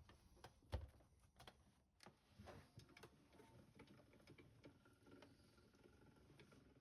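Faint scattered clicks and light taps of hands and tools working at a linocut print, with one sharper knock a little under a second in.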